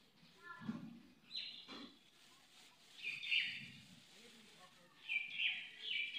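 Birds chirping in a few short bursts of high calls.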